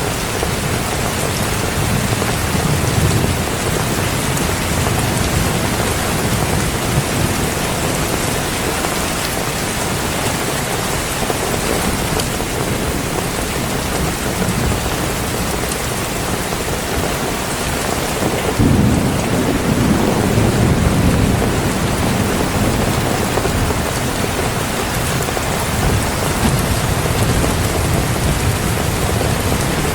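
Heavy rain falling steadily, with a low roll of thunder that starts suddenly a little under two-thirds of the way through and rumbles for a few seconds.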